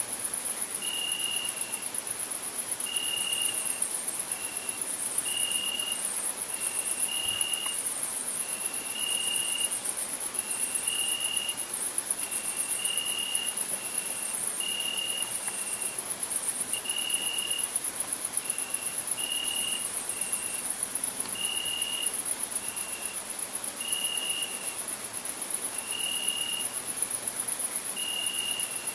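Crickets chirping: a dense, very high-pitched pulsing trill that never lets up, with short piping notes at a lower pitch repeated about every second, two slightly different pitches alternating.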